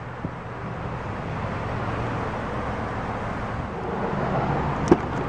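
Steady vehicle rumble with one sharp click near the end.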